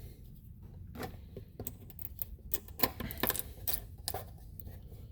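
An uneven run of light clicks and knocks of small hard objects being handled, starting about a second in and going on to near the end, over a low steady hum.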